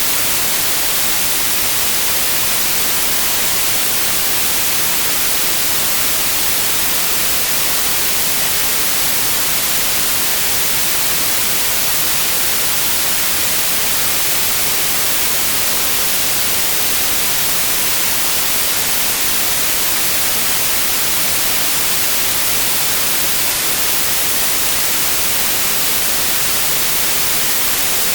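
Steady, loud white noise: an even, unchanging hiss that is brightest in the highs.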